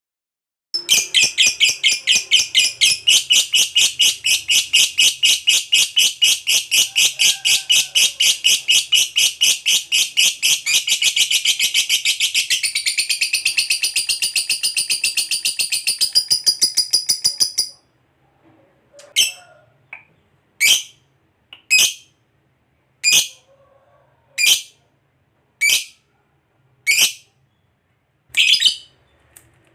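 Lovebird giving its long rapid chattering trill (ngekek panjang): many shrill notes a second, unbroken for about seventeen seconds. It breaks off into single sharp chirps a little over a second apart.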